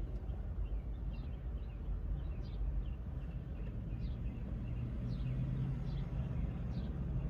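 Small birds chirping, short high falling chirps repeating about twice a second, over a low steady rumble.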